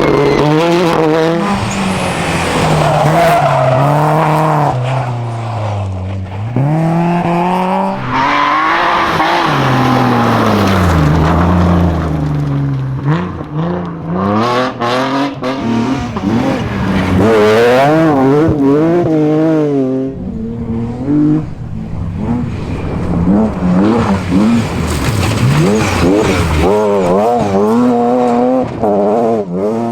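Rally cars' engines revving hard and dropping back through gear changes as the cars pass, the pitch climbing and falling over and over.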